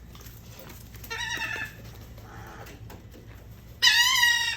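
Seagulls calling: two drawn-out pitched calls, a shorter one about a second in and a louder one near the end.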